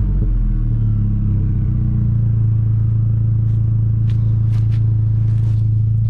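Audi A4 1.8T turbocharged four-cylinder engine settling from a rev down to a steady idle, with a few faint ticks in the second half.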